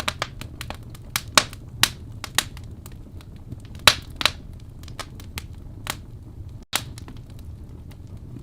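Wood fire crackling in a fireplace: irregular sharp pops and snaps, several of them loud, over a steady low rumble from the burning logs.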